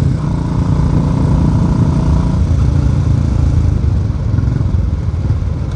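Royal Enfield Classic 350 single-cylinder engine running through a loud aftermarket 'mini Punjab' silencer while riding, a low, steady thump. In the second half it turns rough and irregular, with the exhaust popping on its own.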